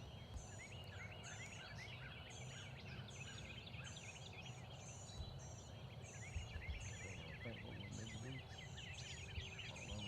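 Chorus of wild songbirds: a high, thin downslurred call repeated about once or twice a second over a dense chatter of smaller chirps and twitters.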